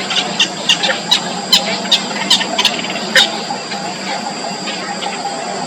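Yellow bittern chicks calling in the nest: a run of short, sharp high squeaks, about three a second, that thins out a little past three seconds in, over a steady high whine.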